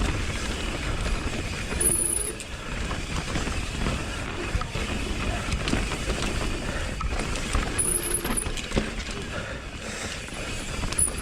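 Mountain bike descending a dirt trail: steady tyre and trail noise with wind on the microphone, broken by frequent knocks and rattles as the bike rolls over rough ground, and a few brief high-pitched sounds near 2 s and 8 s.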